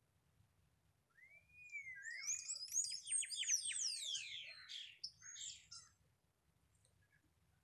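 A bird singing a varied phrase of whistles, quick chirps and falling trills. It starts about a second in with a rising-and-falling whistle and runs for about five seconds.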